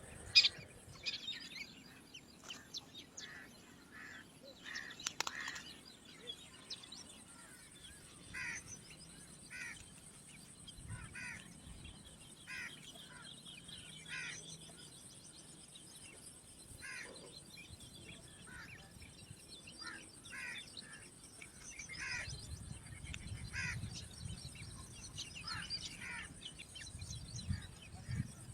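Small birds chirping in short, repeated calls, about one a second, with a faint rapid trill in the middle. A low rumble comes in near the end.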